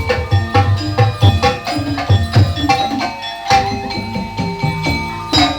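Kuda lumping (ebleg) accompaniment music: hand drums and ringing struck metal percussion playing a quick, steady beat of about three to four strokes a second.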